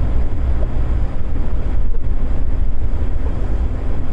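Chained 4x4 off-road vehicle driving slowly through fresh snow, with a steady low engine and drivetrain rumble and the noise of the tyres crunching through the snow.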